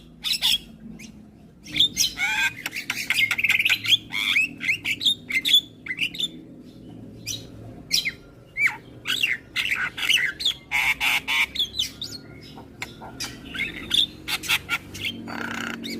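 Javan myna singing: a fast, varied stream of whistles, chattering notes and harsh squawks.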